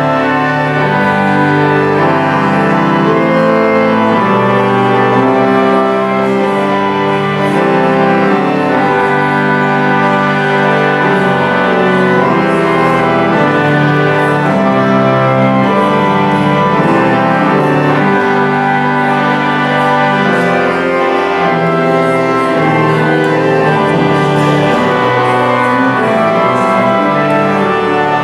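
Organ music: full chords held and changing every second or two, with no voice.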